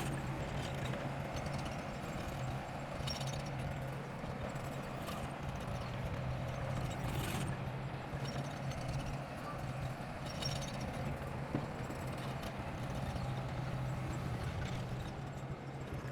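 Heavy construction machine running: a steady diesel engine drone with a few brief clatters, typical of track or blade clanking.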